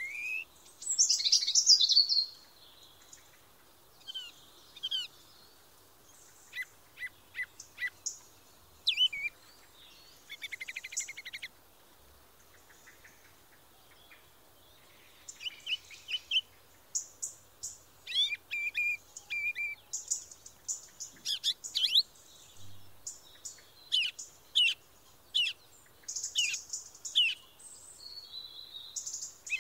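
Small songbirds chirping and singing in short, high phrases with pauses between them. A loud flurry of rapid chirps comes about a second in, and calls crowd more thickly over the second half.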